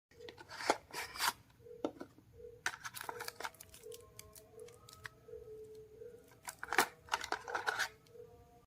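Handling noise: uneven clusters of sharp clicks and rustles, with a faint on-and-off hum underneath.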